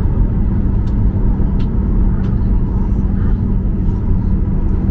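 Steady low rumble with a constant hum inside the cabin of a Boeing 737-800 taxiing after landing, the engines at idle, with a few light clicks and rattles.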